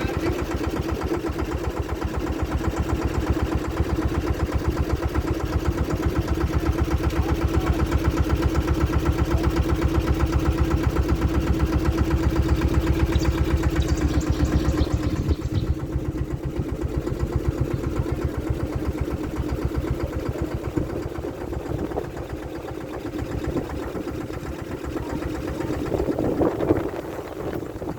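Small boat's engine running with a fast, even pulse and a steady hum, easing off about halfway through.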